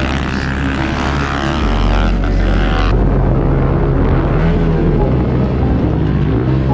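Small pit bike engines revving up and down during a race, their pitch rising and falling. The sound changes abruptly about three seconds in, losing its top end.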